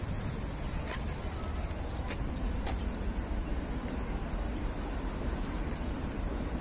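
Outdoor ambience: a steady low rumble with small birds chirping now and then, short descending chirps, and a few faint clicks.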